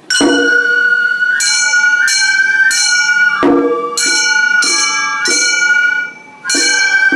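Gion bayashi festival music: a high bamboo flute holding long notes over repeated ringing strokes of small brass hand gongs (kane), with a brief break about six seconds in.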